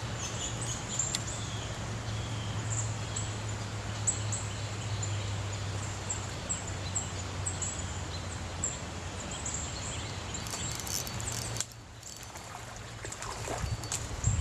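Outdoor creekside ambience: a steady low rumble under repeated short, high-pitched bird chirps. The level drops suddenly near the end, followed by a few faint clicks and rustles.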